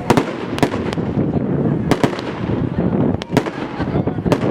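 About nine sharp bangs and cracks at irregular intervals, a few in quick pairs. Under them runs a dense, steady rush of crowd voices and wind.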